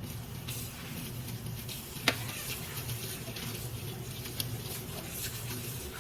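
Light pattering over a soft hiss, with one sharp knock about two seconds in and a steady low hum beneath.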